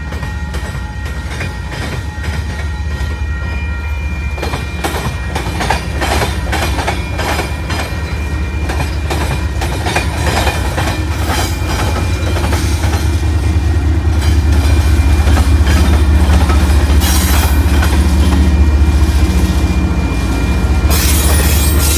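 Freight train of tank cars rolling past close by, the steel wheels clicking over the rail joints, then a mid-train Union Pacific diesel locomotive rumbling past, getting louder through the second half.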